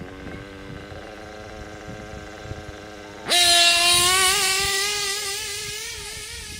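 Kyosho KE25 nitro engine in an RC truggy, running with a steady whine. About three seconds in it turns suddenly much louder and higher, then fades slowly.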